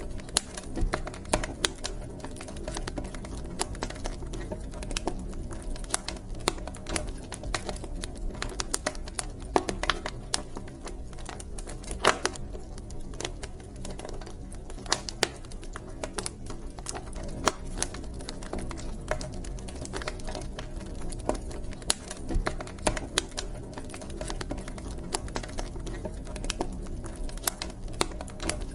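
Wood fire burning in a fireplace, crackling with irregular sharp snaps and pops over a low, steady rumble of the flames.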